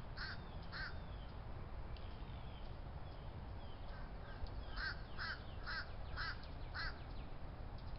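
A black bird in a pine tree calling: two short calls near the start, then a run of five about half a second apart in the second half. A steady low rumble runs underneath, with faint chirps of other birds.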